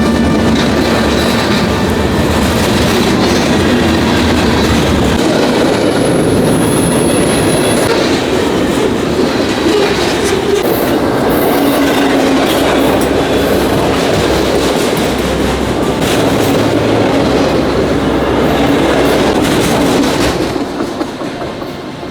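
Loud, steady mechanical rumbling and clattering that fades out near the end.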